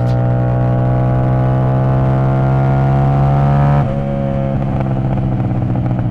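CFMoto 450SS parallel-twin engine through a tuned aftermarket exhaust, held high in the revs with a slowly rising note. About four seconds in the throttle comes off, the note drops suddenly, and the exhaust crackles and pops as the revs come down: overrun pops from keeping a tiny bit of throttle at 7,000–9,000 RPM.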